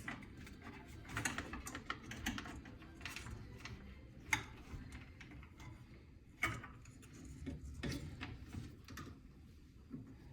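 Irregular light clicks and taps of hands working a plastic wiring connector at the back of a range, as the connector is fitted back together, with a couple of sharper clicks about four and six seconds in.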